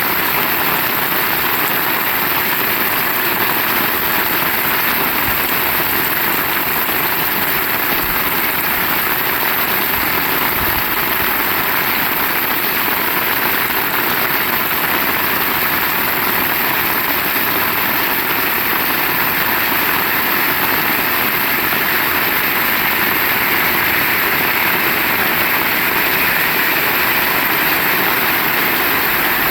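Heavy rain falling steadily, an even, loud hiss with no letup.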